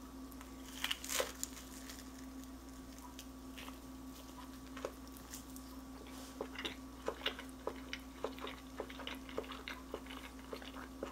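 A person biting into and chewing breaded chicken, the breading crunching faintly in the mouth: a couple of louder crunches about a second in, then a run of small irregular crunches through the second half.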